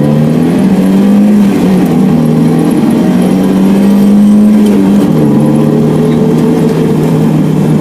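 Car engine pulling under acceleration, its pitch climbing and then holding steady; the pitch drops as it shifts up about five seconds in, and the engine runs on at the lower pitch.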